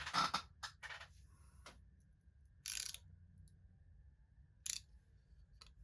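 Several short, irregularly spaced clicks and scrapes of small objects being handled, with a slightly longer scrape about three seconds in.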